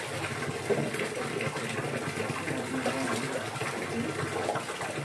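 Steady rushing of running water, like a tap or a small stream, at an even level throughout.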